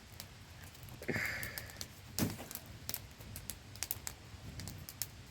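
Wood campfire crackling with irregular sharp pops, a brief hiss about a second in and a loud crack just after two seconds, over the steady static-like rush of a small waterfall.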